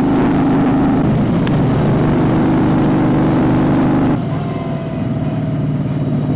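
Moto Guzzi V35's air-cooled V-twin engine running steadily under throttle. About four seconds in, the sound drops suddenly and the engine note changes, as when the throttle is rolled off.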